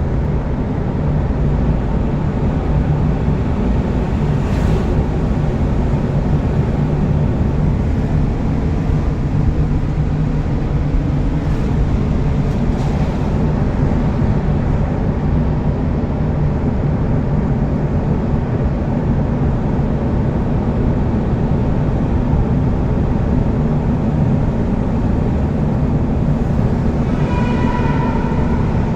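Steady rumble of a vehicle driving along a highway: continuous engine and tyre noise. A brief pitched tone, like a horn, sounds near the end.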